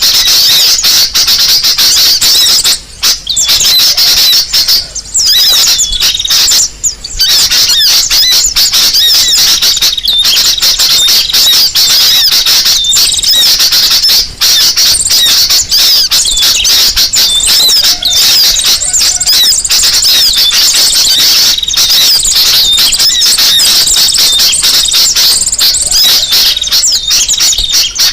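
Bird-lure recording of kolibri sogo ontong sunbird calls: a dense, unbroken stream of rapid, high-pitched twittering and chirps, with a few brief gaps in the first seven seconds.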